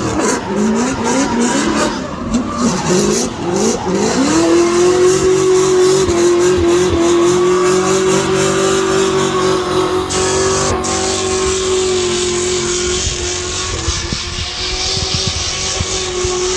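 A competition car's engine revving hard in several quick rising sweeps, then held at steady high revs for several seconds, with tyre squeal.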